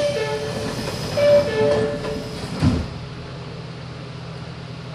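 Interior running sound of a Meitetsu 6000 series first-batch electric train car: a steady low hum, with a few short pitched tones and knocks in the first three seconds, then an even, quieter hum.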